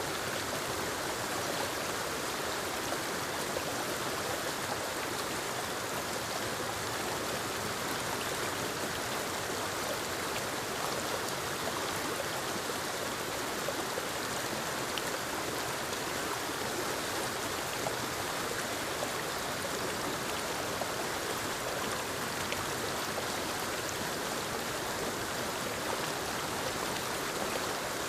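Small forest waterfall cascading over rocks into a stream: a steady, even rush of falling and running water.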